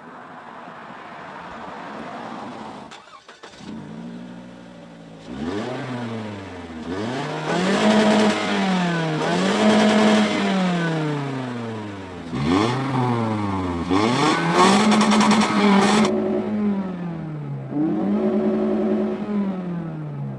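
1999 Toyota RAV4 with a cold-air intake, its 2.0-litre four-cylinder engine and exhaust revved up and let fall back about four times. Each time the pitch climbs, holds briefly at the top and then sinks back down, after a quieter, steadier stretch at the start.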